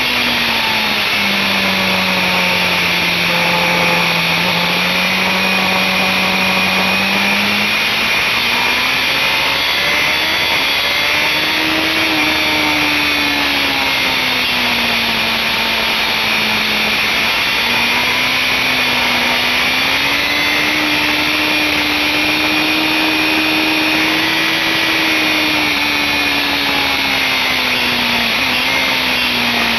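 BMW S1000RR inline-four sport-bike engine running at high revs, its note falling and rising repeatedly as the rider brakes and accelerates through the corners, under heavy wind noise on the bike-mounted microphone.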